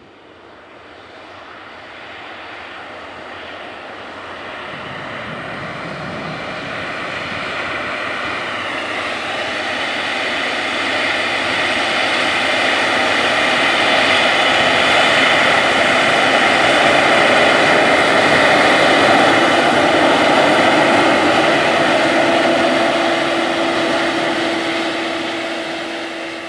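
Air Tractor agricultural airplane making a low pass while spreading fertilizer. Its engine and propeller grow steadily louder for most of the time, then fade away near the end.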